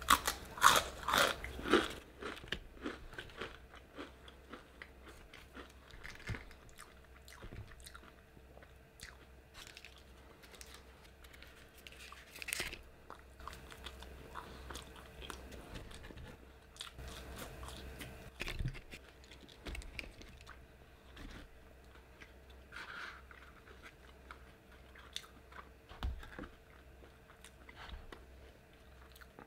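A person biting into crunchy food close to the microphone: a few loud crunching bites at the start, then steady chewing with small crunches and mouth clicks, and a louder crunch now and then.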